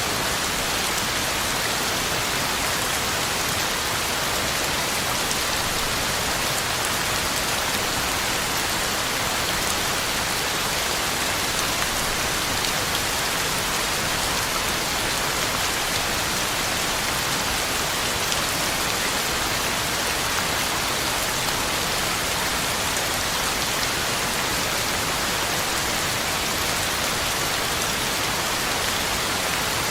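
Heavy rain falling steadily on the ground and leaves, an even hiss with scattered drop patter.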